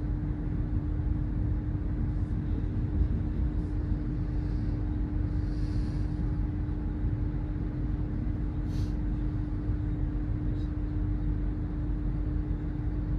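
Diesel train idling at a station platform: a steady low rumble with a constant hum.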